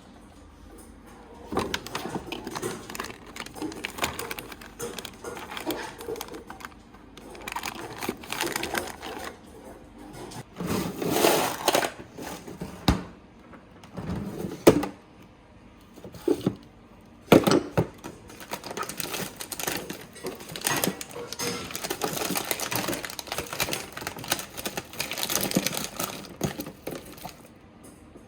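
Food packages and plastic containers being handled and moved around in a refrigerator and freezer: irregular clacks, knocks and rustling, with a few sharper knocks past the middle.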